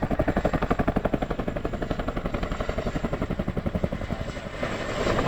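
Boeing Chinook's tandem rotors chopping in a fast, even beat, loud and close. About four and a half seconds in the sound swells and the beat blurs.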